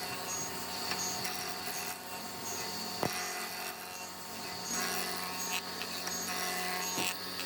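Electric power tool running steadily with a constant motor hum, with a couple of sharp clicks about three seconds in and near the end.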